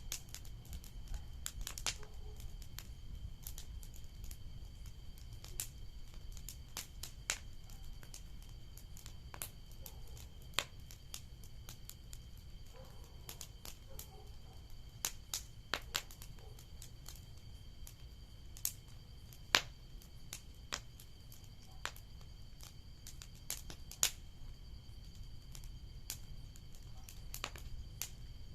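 Bonfire crackling: irregular sharp pops and snaps of burning wood over a low steady rumble, with a few louder snaps in the second half.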